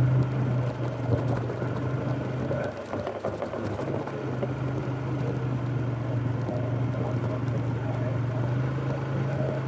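Fuel-injected Polaris ATV engine running at a steady pace under way, easing off briefly about three seconds in before picking back up.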